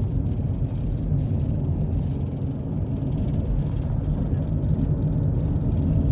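Steady low rumble of a car driving, engine and road noise with no sudden events.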